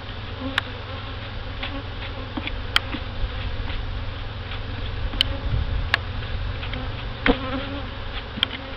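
Honey bees buzzing steadily around an open hive, with a few sharp clicks scattered through.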